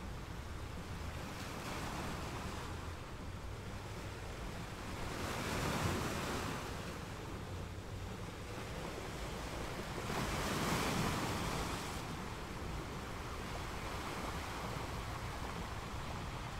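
Sea surf: small waves breaking and washing up a sandy beach, a steady wash that swells louder twice, about six and eleven seconds in, as waves break.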